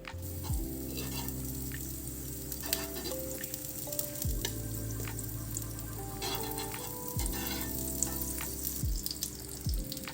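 Food sizzling and crackling in a frying pan, under soft background music with long held notes.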